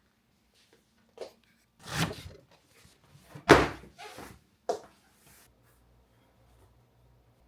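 A few separate thunks and knocks in a small room, the loudest about three and a half seconds in.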